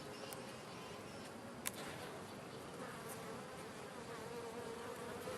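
Honey bees buzzing around an opened hive, a faint steady hum that takes on a clearer humming tone in the second half. One brief click about a second and a half in.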